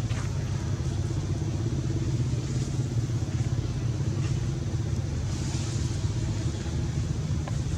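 A steady low motor hum, like an engine running, with no change in pitch.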